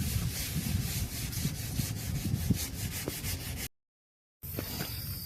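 A rough rubbing, rustling scrape with quick irregular strokes that cuts off abruptly about three and a half seconds in. After a short gap of dead silence, a steady high-pitched insect trill, like a cricket or cicada, sets in.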